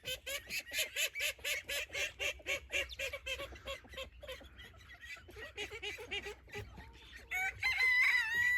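Light Sussex hens clucking in a quick run of short notes, about five a second, then one louder, drawn-out call near the end.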